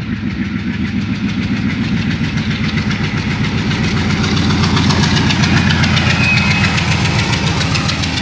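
ALCO-built WDG3A diesel locomotive chugging hard, its exhaust beating in a rapid, even rhythm and growing louder over the first few seconds.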